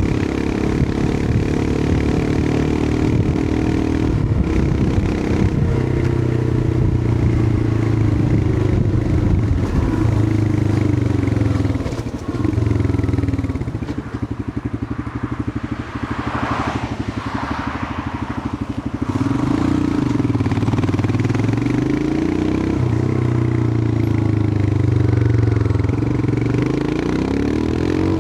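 Royal Enfield Himalayan 411's air-cooled single-cylinder engine running under way, its note rising and falling with the throttle. About halfway through it backs off and runs quieter for several seconds, then pulls again, the pitch climbing near the end.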